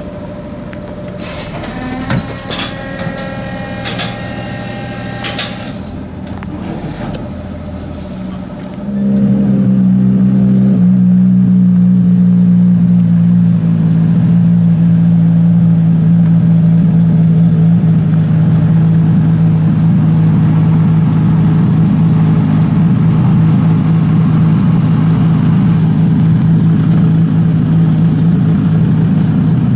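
Aston Martin One-77's 7.3-litre V12 engine starting about nine seconds in, flaring briefly, then settling into a loud, steady idle.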